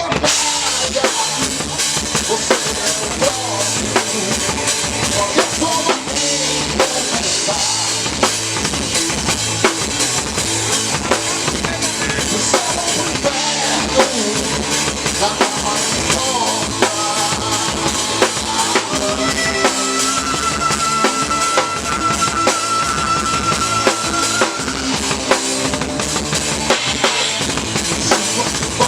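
A metal band playing live with the drum kit up front: steady kick drum and snare strokes under the rest of the band. A single high note is held for several seconds a little past the middle.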